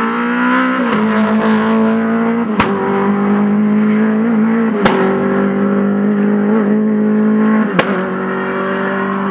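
Lada VFTS rally car's four-cylinder engine running hard at high revs, its pitch climbing over the first second and then holding nearly steady. Three sharp cracks cut through it, spaced two to three seconds apart.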